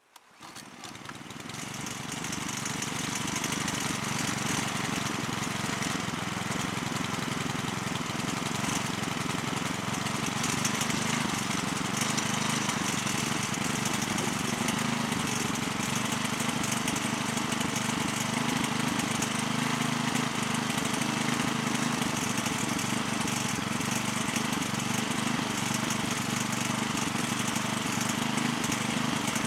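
Honda FG201 cultivator engine running steadily. It swells up over the first few seconds, then holds an even, unchanging note.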